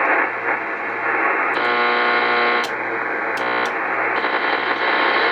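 Radio hiss and static, as heard between stations, with brief steady whistling tones coming through twice in the middle.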